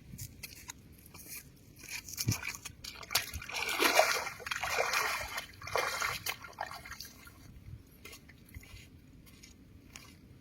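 Shallow water splashing and sloshing in irregular bursts, loudest in the middle few seconds, with small scattered clicks before and after.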